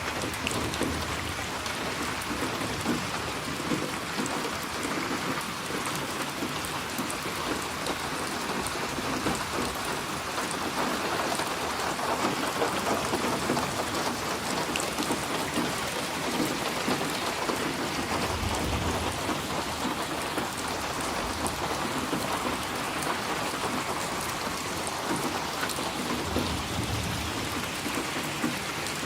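Steady rain falling, an even hiss with a patter of drops, and low rumbles of distant thunder a little past the middle and again near the end.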